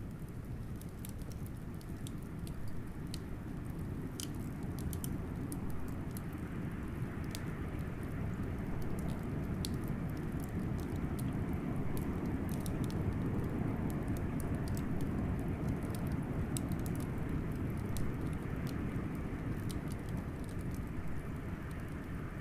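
Wood fire crackling with scattered sharp pops over a low rush of blizzard wind that swells in the middle and eases again toward the end.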